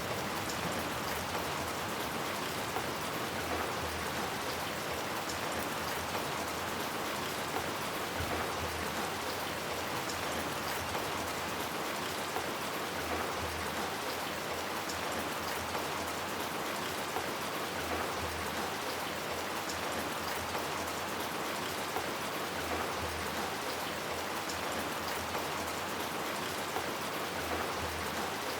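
Steady rain falling on hard surfaces, a constant even hiss with many small drop patters.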